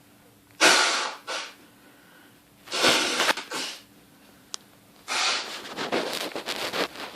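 Several loud, breathy huffs and sniffs of air close to the microphone, coming in irregular bursts with short quiet gaps between them.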